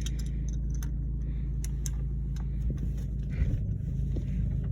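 2007 Jeep Compass's four-cylinder engine idling steadily, with a few light clicks and a couple of low knocks about three and a half seconds in.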